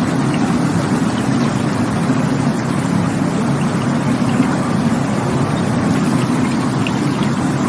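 Steady, deep-toned rush of flowing water.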